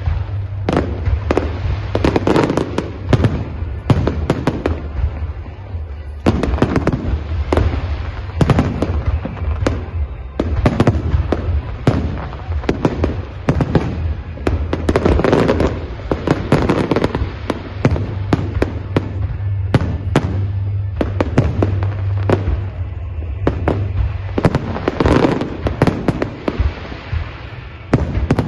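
Display fireworks bursting in quick, irregular volleys of sharp bangs with crackling between them, over a steady low rumble.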